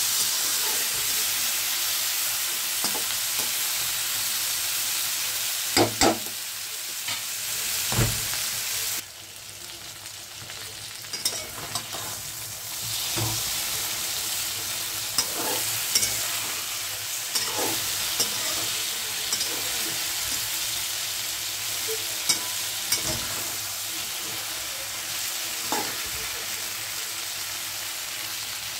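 Masala-stuffed okra and green chillies sizzling in hot oil in a metal kadhai, with a metal spatula scraping and knocking against the pan as they are stirred. The sizzle drops lower about nine seconds in and comes back a few seconds later.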